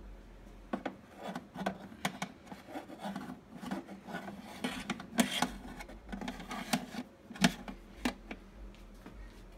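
Irregular rubbing and scraping with scattered light clicks and knocks: marinated chicken pieces being handled and laid into an air fryer basket.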